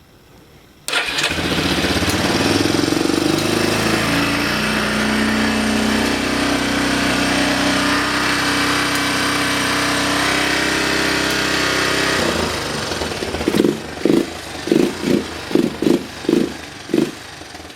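2002 Yamaha YFM400 Big Bear's single-cylinder four-stroke engine starting about a second in, its pitch settling over the next few seconds into a steady idle. Near the end it gives a string of about eight short, loud bursts. The owner calls the engine in good running condition.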